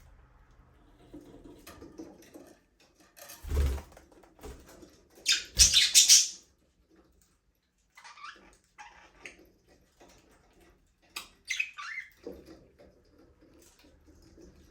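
Budgerigars chirping in short scattered bursts, loudest in a cluster about five to six seconds in, with a dull thump a little before it.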